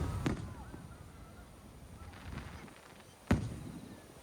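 Fireworks shells bursting: two sharp bangs about three seconds apart, the second louder, each followed by a low rumbling echo.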